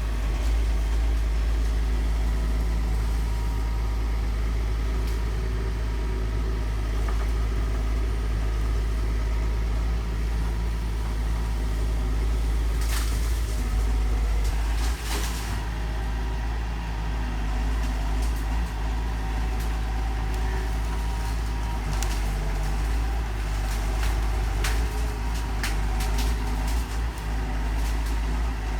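Heavy earthmoving machine's diesel engine running steadily under work, with a few short sharp cracks or knocks over it.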